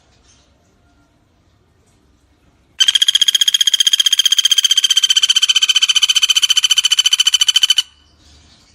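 Pelatuk bawang woodpecker giving one long, loud, fast, even rattling trill. It starts about three seconds in, runs about five seconds and stops abruptly.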